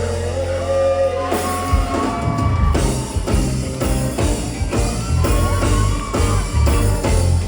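Live band playing an instrumental passage of a reggae-pop song. A guitar lead line holds and slides between notes over a sustained low note, then drums and bass come in with a steady beat about a second and a half in.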